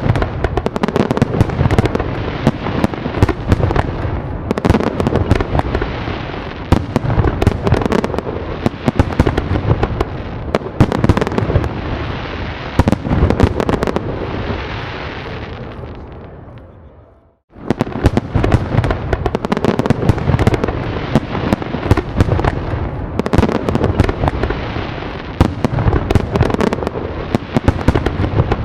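A dense fireworks barrage: rapid loud bangs over continuous crackling. It fades down to a brief gap about seventeen seconds in, then starts again abruptly at full strength.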